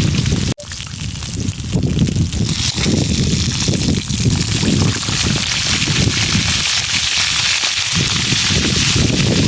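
Continuous rushing, splashing water mixed with a gusty rumble of wind on the microphone, with a brief dropout about half a second in.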